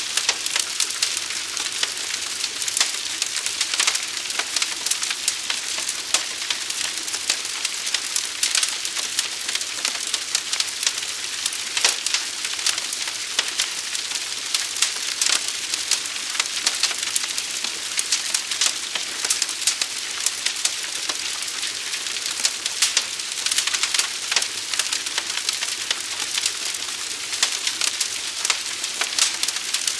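Forest fire burning with a steady hiss and dense, irregular crackling and popping throughout.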